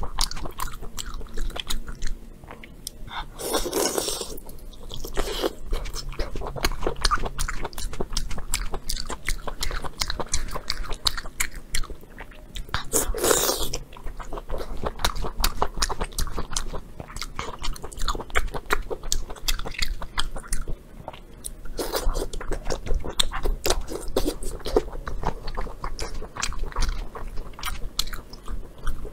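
Close-miked chewing of braised pork large intestine, a dense run of rapid mouth clicks. Three louder, longer sounds come about 4, 13 and 22 seconds in.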